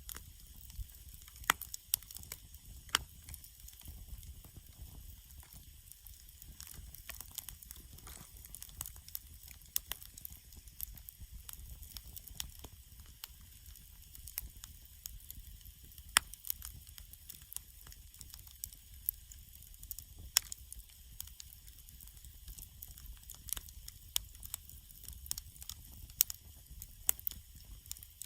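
Wood campfire crackling, with irregular sharp snaps and a few louder pops.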